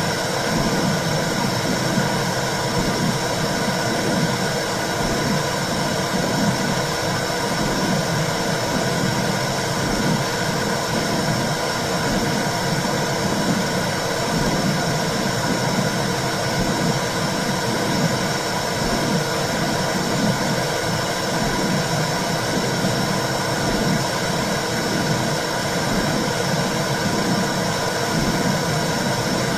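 Womb sound: a steady whooshing noise with a low, fluctuating rumble beneath it, unchanging throughout.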